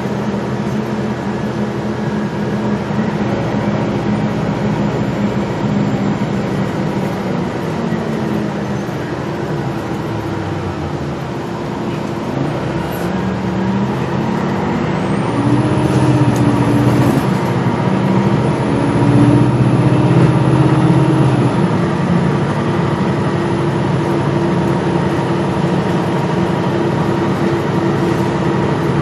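Gillig Low Floor transit bus under way, its engine and drivetrain running steadily. About halfway through it speeds up, the engine pitch rising and stepping through the gears and growing louder, with a faint high whine above it.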